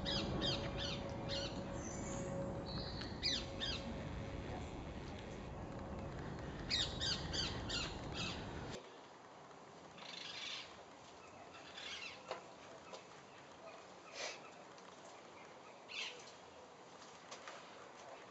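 Small birds chirping in quick runs of short high calls over a steady low outdoor rumble. About nine seconds in, the rumble drops away and single chirps follow every couple of seconds over a quiet background.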